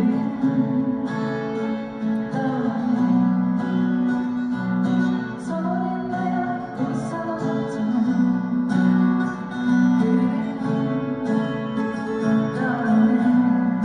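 Acoustic guitars strumming chords together in a live group performance of a song.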